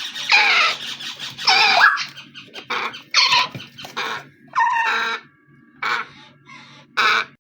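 Parrots squawking: a run of about eight harsh calls, each under a second long, over a low steady hum, all cutting off suddenly at the end.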